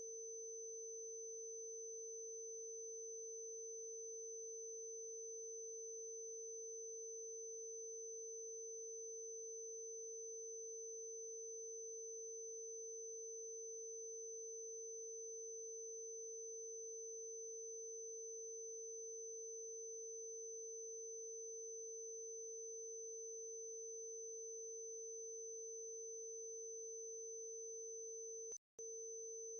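Two steady electronic sine tones sounding together, a mid-pitched tone with a high whistle-like tone above it, generated from the Harmonics of Nature tuning scale. Both cut out for an instant about a second before the end, then carry on.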